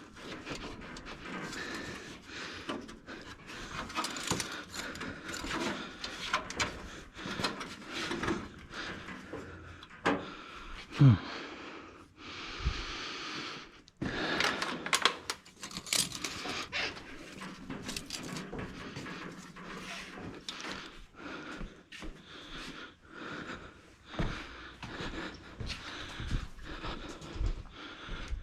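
Scattered clinks and knocks of hand tools and metal parts, with a short squeak falling in pitch about eleven seconds in.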